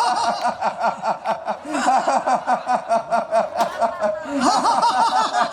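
People in a laughter yoga group laughing together on cue, a deliberate laughter exercise: quick, repeated ha-ha pulses from several voices.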